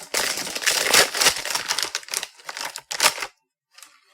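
Plastic potato chip bag crinkling as it is handled and pulled open: a dense run of sharp crackles that stops about three seconds in.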